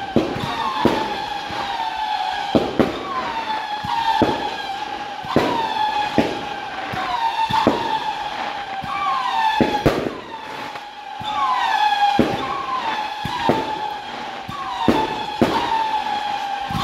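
Aerial fireworks going off, with sharp bangs every second or two. Under them runs a continuous siren-like wail that swoops up and falls back to a steady tone about every second and a half.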